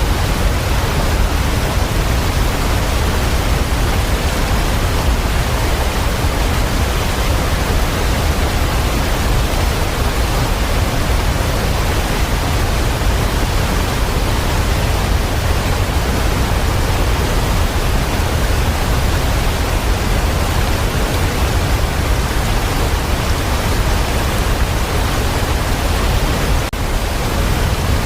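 Steady, even rushing of water, as from heavy rain or falling water, unchanging throughout.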